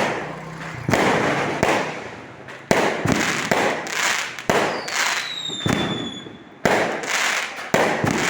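Fireworks going off in quick succession: about eight loud bangs, each trailing off into crackling fizz. In the middle a high whistle slowly falls in pitch.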